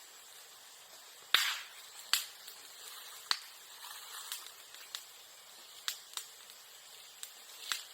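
Bamboo and bamboo grass burning in a bonfire, popping with sharp, irregular cracks like firecrackers, about seven in all, the loudest about a second and a half in.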